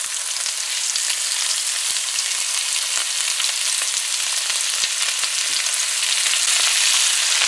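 Hot oil sizzling and crackling in a nonstick pan of stir-fried bell peppers, carrots and onions as raw shrimp are added, the sizzle growing a little louder about six seconds in.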